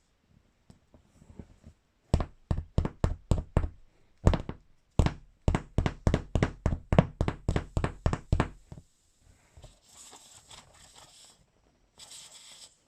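A crowbar striking an inflated beach ball again and again: a run of about six knocks, a single one, then a quicker run of about a dozen more at roughly three to four a second. Two short hissing noises follow near the end.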